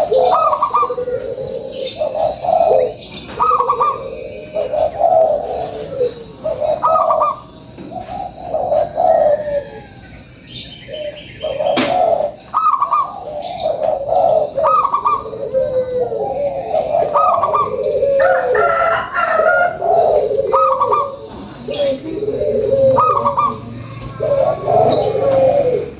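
Perkutut (zebra dove) cooing over and over in short, rapid, warbling phrases, one or two every couple of seconds.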